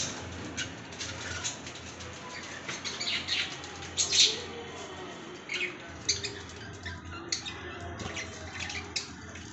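Pet lovebirds chirping and squawking in short, sharp, high calls scattered at irregular intervals. The loudest cluster comes about four seconds in.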